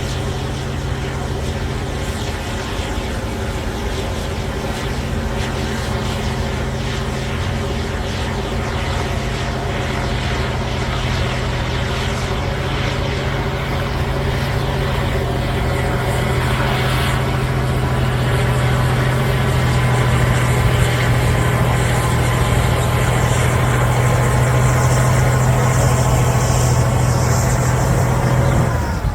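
Caterpillar D9L bulldozer's V12 diesel running under load as it pushes overburden, a steady deep drone with a strong low hum. It grows louder and harsher from about two-thirds of the way in.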